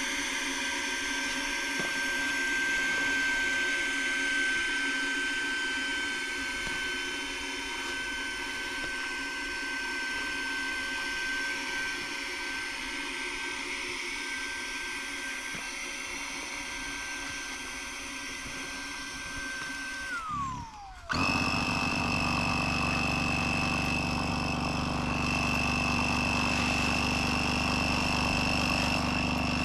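A small electric motor whining steadily at one pitch. About two-thirds of the way through it winds down, its pitch falling, and a moment later a higher-pitched, louder motor hum starts and runs steadily.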